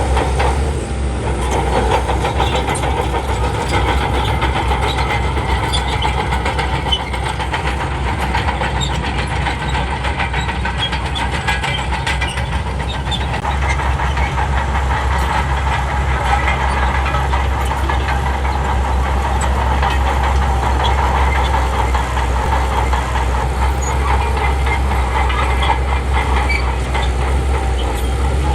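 Bulldozer's heavy diesel engine running steadily with a strong low rumble, overlaid by a dense rapid clatter.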